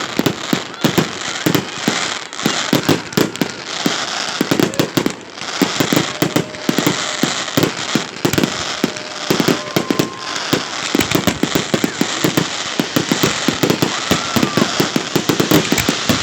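Fireworks display: a dense, unbroken barrage of rapid bangs and crackling shell bursts.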